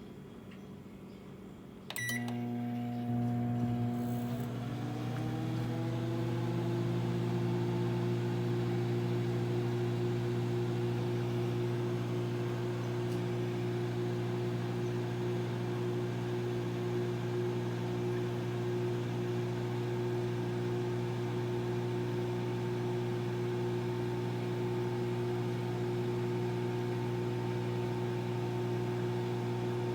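Microwave oven starting with a short beep about two seconds in, then running with a steady hum whose pitch rises slightly over the next few seconds before holding level.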